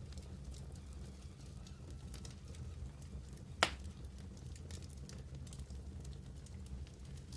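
Wood fire burning in a fireplace: a low steady rumble with scattered small crackles, and one sharp, loud pop about halfway through.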